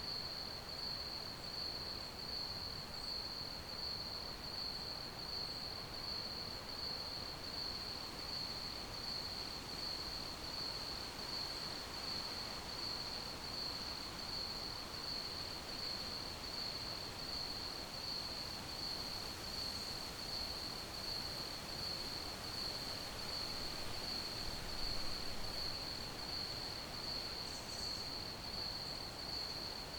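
Crickets chirping in a steady, unbroken rhythm at one high pitch, over a soft background hiss.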